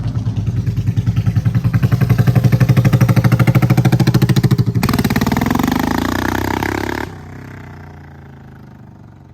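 A car engine running loud with a fast, even pulsing. About five seconds in it revs up with a rising pitch, and about two seconds later it drops off suddenly and fades away.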